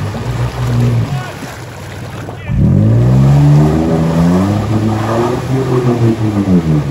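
Off-road vehicle engine running, then revved up hard about two and a half seconds in, its pitch climbing and dipping as the throttle is worked.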